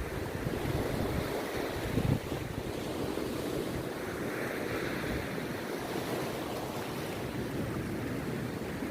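Rough sea waves breaking on a beach: a continuous rush of surf that swells into a louder hiss about halfway through, with wind buffeting the microphone.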